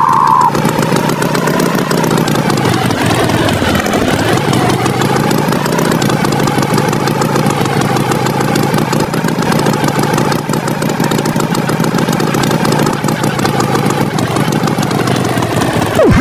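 Cartoon tractor engine sound effect running steadily, its pitch wavering gently up and down. A short falling swoosh comes just before the end.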